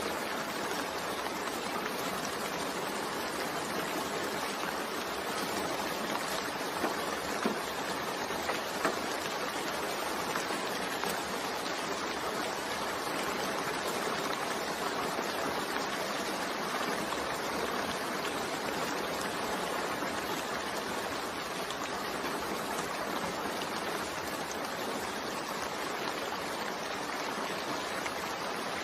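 Steady rain falling, an even, unbroken hiss of water, with a few louder taps about seven to nine seconds in.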